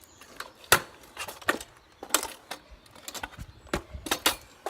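Kick scooter clattering on pavement: a string of sharp knocks and clacks from the deck and wheels hitting the ground during trick attempts, the loudest about three quarters of a second in.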